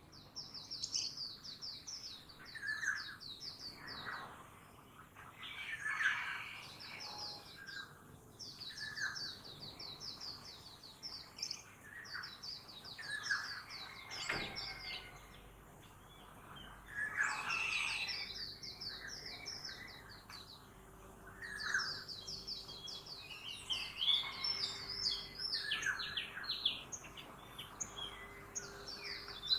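Several birds singing in a morning chorus: runs of rapid, high repeated chirps lasting a few seconds each, with lower calls in between. A faint steady hum comes in about halfway through.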